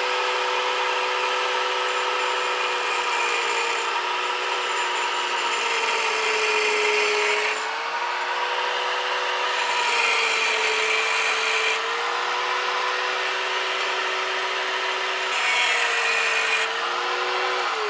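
Power tool with an abrasive cut-off wheel cutting through a steel car exhaust pipe: a steady high whine that sags in pitch a few times under load, with a harsh grinding hiss in stretches. Near the end it is switched off and the whine falls away as the wheel spins down.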